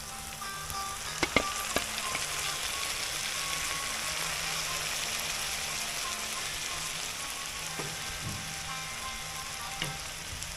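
Food sizzling steadily as it fries in a pan on a wood-burning cook stove, with a few sharp clicks about a second and a half in. Faint background music plays underneath.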